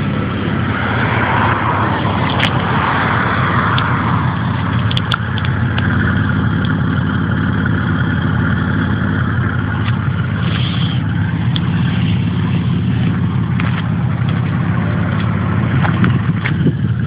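Dodge Stealth twin turbo running steadily: a continuous low drone with a steady hiss over it.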